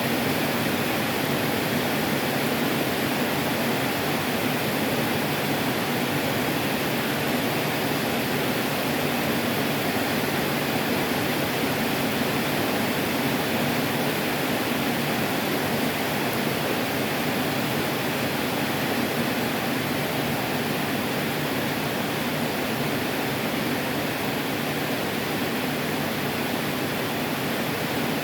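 Heavy tropical rain pouring down in a steady, even rush.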